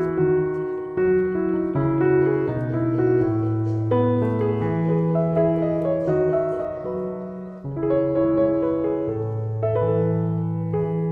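Background piano music, with slow chords and a melody, and a short pause about three quarters of the way through.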